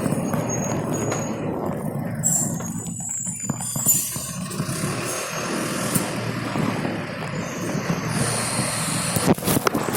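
Steady rushing noise of riding along a rain-wet street, with wind buffeting the microphone and wet road noise, and a few sharp knocks near the end.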